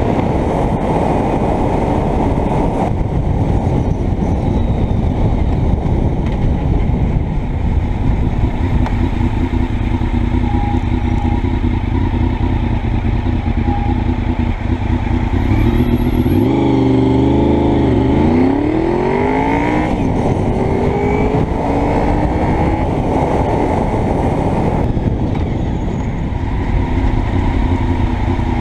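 Honda VFR's V4 engine under way, with heavy wind rush on a helmet-mounted microphone. About halfway the engine note drops, then climbs again in several rising sweeps as the bike accelerates through the gears.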